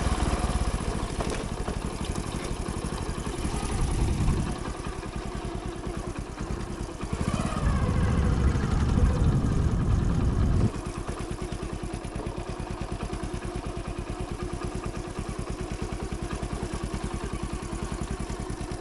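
Hero Splendor's small single-cylinder four-stroke engine running under way, heavy and rumbling for most of the first ten seconds, then dropping suddenly to a quieter, steady, even putter about eleven seconds in.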